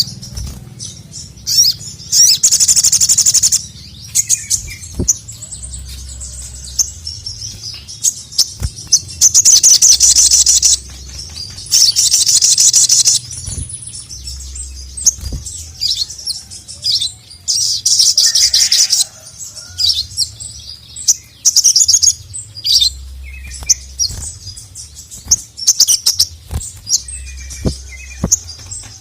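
Male sogon (sogok ontong, little spiderhunter) singing: loud, high-pitched bursts of rapid song, each a second or two long, repeated about half a dozen times, with short single chirps between them.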